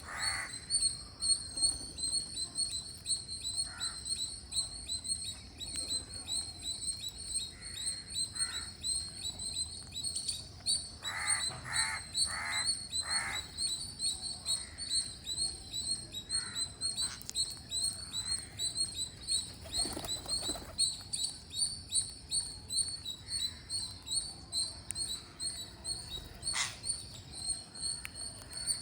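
Green parrots calling while feeding: a constant fast stream of high chirps, with scattered louder calls, including four in quick succession about eleven seconds in.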